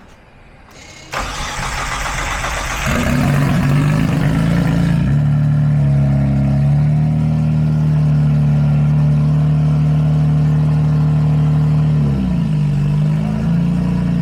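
2005 Hyundai Tiburon's 2.7-litre V6 cranked by the starter about a second in, catching after about two seconds, then settling into a steady idle. Near the end the idle dips briefly and recovers.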